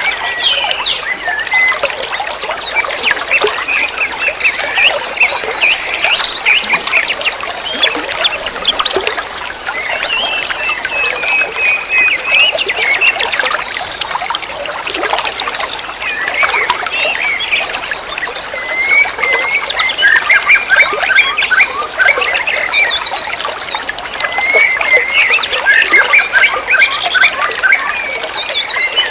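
Songbird chattering continuously in rapid, dense runs of chirps and short trills, high-pitched and without pause.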